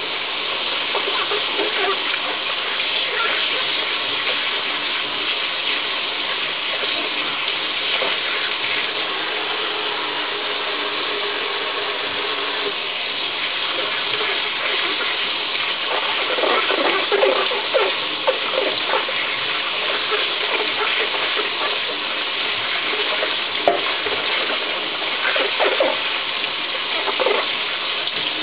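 Water running steadily from a tap, with a few short knocks and clicks of things being handled in the stream in the second half.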